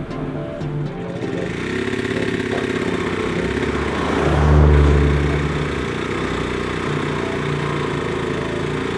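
An engine running and revving, its pitch shifting up and down and the sound swelling loudest about halfway through.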